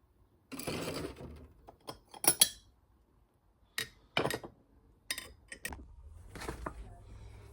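Crockery and cutlery clinking: a short rustling clatter, then a string of sharp clinks and knocks, like a teaspoon and mug being handled while tea is made. A low steady hum comes in near the end.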